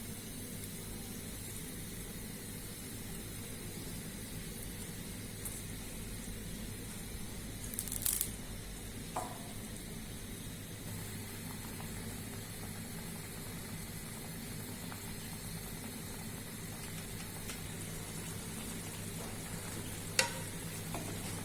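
Spinach and fried carp pieces cooking in a pan of spinach and water over a raised flame, with a steady sizzle. A few short sharp clicks come about eight seconds in and near the end.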